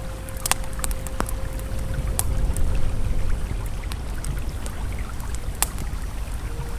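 Campfire crackling with scattered sharp pops over the steady low rush of a flowing river. A faint held tone from soft ambient music fades out about halfway through.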